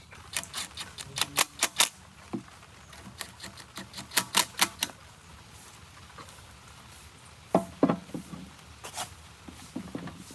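Quick runs of sharp clicks and taps from small hard objects, in two clusters of rapid strikes, then a few single knocks near the end, one with a brief ring.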